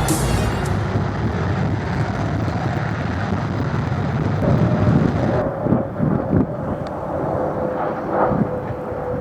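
Airbus A319 airliner's jet engines on approach: a steady rumble, joined about halfway through by a steady whine, with wind buffeting the microphone.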